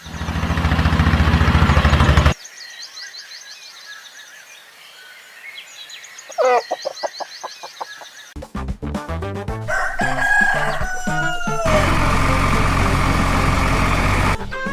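Edited soundtrack: a loud, low droning sound for about two seconds, then birds chirping and a single rising animal call, then music with a steady beat from a little past halfway.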